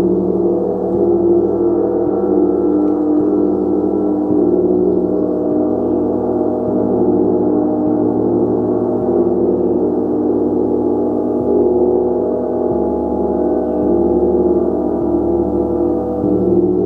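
A gong played continuously: a loud, steady, sustaining wash of many overlapping low and mid tones, kept going by soft strokes every second or so.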